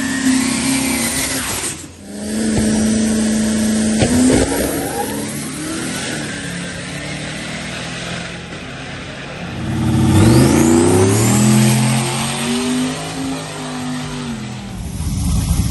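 Full-size pickup truck engines revving and accelerating hard on test runs, the pitch climbing and dropping back at gear changes, with an abrupt break about two seconds in.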